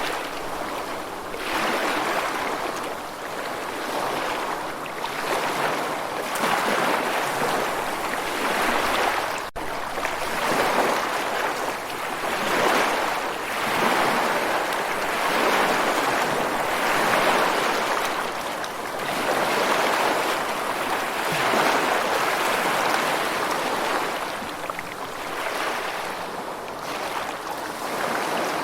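Water noise from waves washing in, rising and falling about every two seconds, with a momentary break about nine seconds in.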